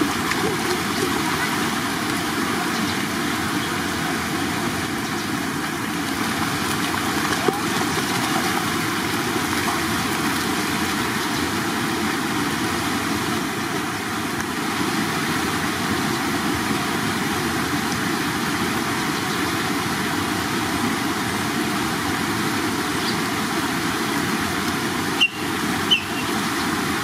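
Running water flowing steadily, with a couple of brief clicks near the end.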